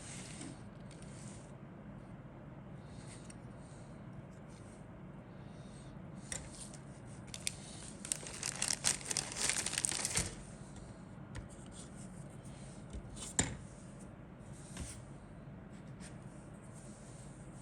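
Model-kit packaging being handled: crinkling and rustling of plastic wrap, loudest and densest for a couple of seconds around the middle, with a single sharp click a few seconds later.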